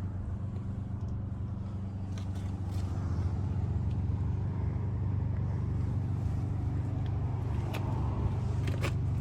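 A motor vehicle engine idling: a steady, even low hum, with a few faint clicks over it.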